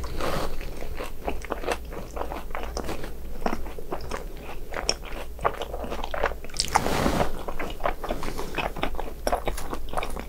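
Close-miked biting, crunching and chewing of crispy fried snacks.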